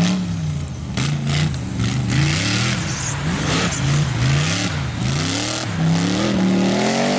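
Off-road race rig's engine revving up and down over and over, its pitch rising and falling about once a second, with bursts of rushing noise in between.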